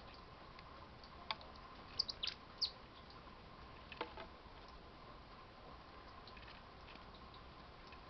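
A few short, high chirps from small birds (tits) visiting a feeder, most of them clustered about two seconds in. A single sharp tap comes about four seconds in, and a faint steady hum runs underneath.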